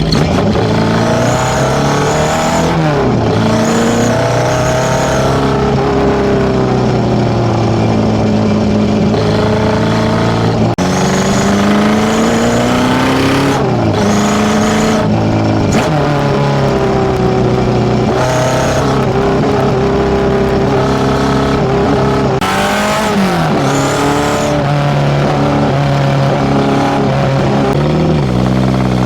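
Tuned Nissan A15 four-cylinder in a Datsun B210 coupe, breathing through FCR41 carburettors into a one-off 54 mm stainless exhaust, revving up and down repeatedly: the pitch climbs over a second or two, then drops back, several times.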